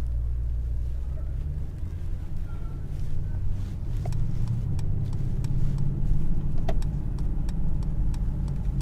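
Mercedes-AMG GLS 63's 4.0-litre twin-turbo V8 running under way in Sport Plus, heard from inside the cabin, its low drone shifting as the revs change. A few faint crackles from the exhaust come through from about three seconds in.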